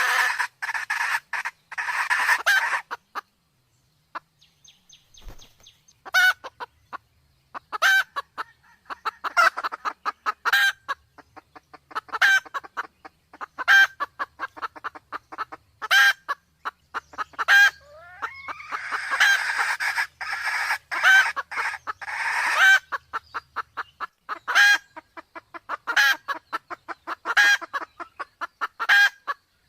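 Red junglefowl calling: a fast run of cackling clucks, a pause of a few seconds, then sharp single calls every second or two with softer clucks between, and another fast cackling run about two-thirds of the way through. The calls are the clucking of a hen in heat, mixed with a cock.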